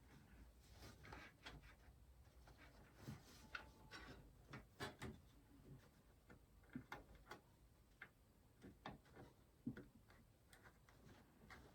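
Faint, irregular clicks and light taps of small parts being handled and fitted while a PC case is assembled.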